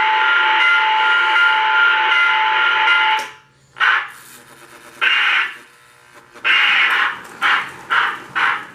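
Electronic steam-whistle sound from a model train tender's sound unit, held steady for about three seconds before cutting off. Then come steam chuffing sounds, slow at first and picking up to about two chuffs a second.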